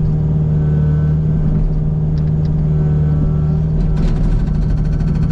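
Kubota U55 mini excavator's diesel engine running steadily, and about four seconds in the Agrotk 680 hydraulic hammer starts firing, a fast even series of sharp blows on hard sandstone that the bit barely penetrates.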